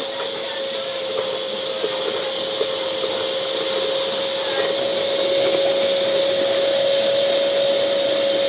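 Miyako wet-and-dry vacuum cleaner running at full power with a steady whine, sucking water up out of a bucket; it grows slightly louder.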